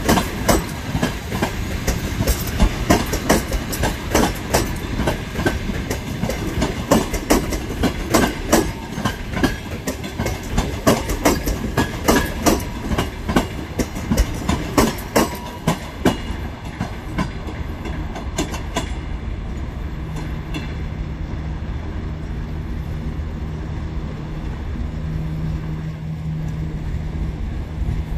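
A train rolling through the station, its wheels clacking rapidly over rail joints. The clacks thin out after about sixteen seconds and give way to a steadier rumble with a low hum.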